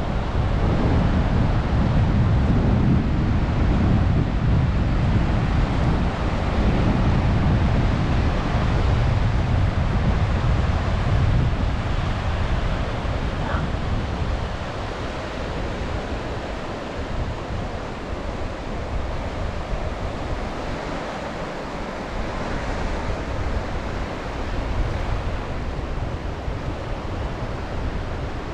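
Sea waves washing onto the beach, with wind buffeting the microphone in a low rumble; louder for the first half, then easing off.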